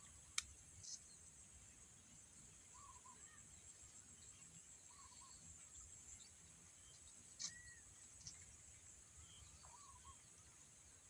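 Faint rural ambience: a steady high-pitched insect drone, with a few short bird chirps and a couple of sharp clicks.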